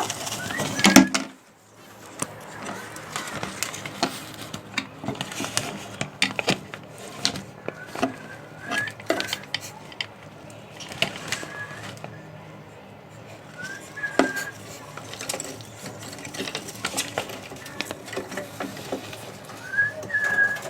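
Caged birds making short rising chirps every few seconds over frequent light clicks and clatters.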